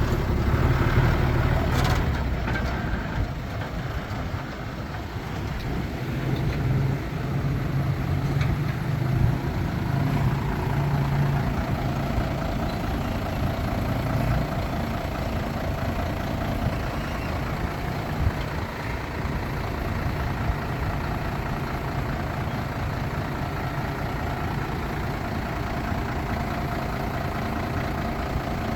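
Heavy diesel earthmoving machinery, dump trucks and a bulldozer, running steadily, with a brief clank about two seconds in.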